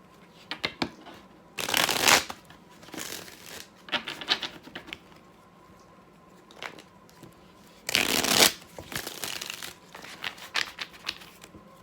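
A tarot deck being shuffled by hand, with a loud burst of shuffling about two seconds in and again about eight seconds in, and lighter card flicks and taps in between.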